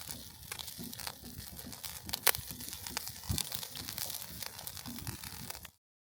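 Aluminium foil wrapped around a roasted sweet potato crinkling and crackling as it is handled, in many irregular sharp clicks. It cuts off suddenly near the end.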